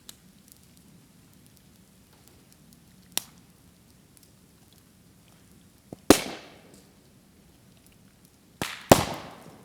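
Green bamboo bursting in a bonfire: a sharp crack about three seconds in, a very loud bang with a fading tail about six seconds in, then two more bangs close together near the end. The moisture sealed inside the bamboo's sections expands in the heat and blows them open; dry bamboo hardly pops.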